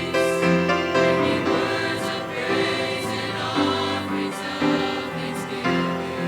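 College choir singing a gospel worship song in harmony, with musical accompaniment.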